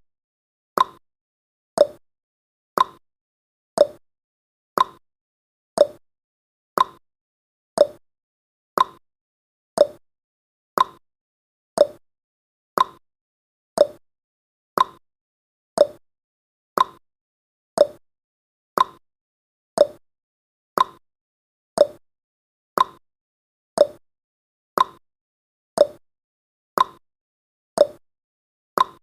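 Clock-ticking sound effect for a countdown timer: one sharp tick every second, evenly paced.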